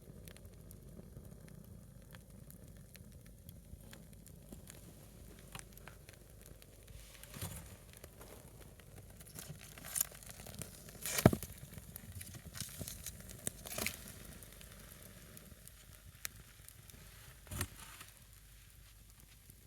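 A single log of firewood burning in a small fire: a quiet hiss with scattered small crackles and several sharp pops, the loudest a little past the middle.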